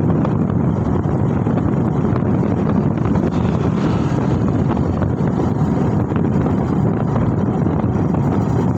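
Steady wind buffeting the microphone with road noise while riding.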